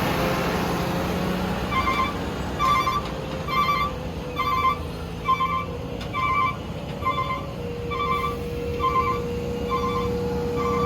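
A truck's diesel engine running, with a steady hum. From about two seconds in, an electronic beeper sounds short even beeps, about one and a half a second.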